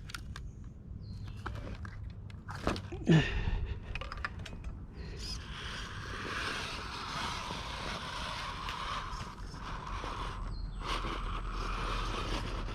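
RC rock crawler's electric motor and gears whirring as it crawls over rock, with scattered clicks and knocks of the tires and chassis on the stone. The whir runs steadily through the middle stretch and eases off briefly near the end.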